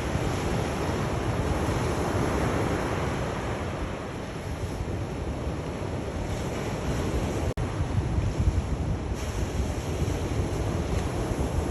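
Sea waves washing in and drawing back: a steady surf wash that swells and eases, broken once by a momentary dropout about two-thirds of the way through.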